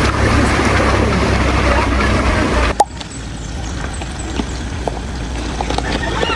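Rushing river water close by, which cuts off abruptly a little under three seconds in, leaving a quieter background with scattered small clicks.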